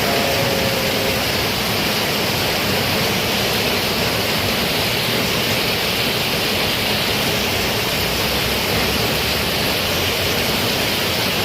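Heavy rain pouring down steadily, an even hiss with no breaks, and a faint brief tone in the first second.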